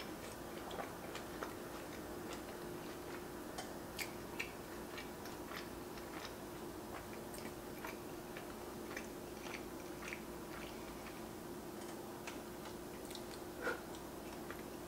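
A person chewing a mouthful of cheeseburger with goat cheese and arugula on a toasted bun: faint, scattered wet mouth clicks and smacks. A steady faint hum runs underneath.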